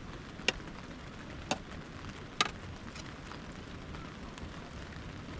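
Steady hiss of rain with an open wood fire, and three sharp snapping pops about a second apart in the first half.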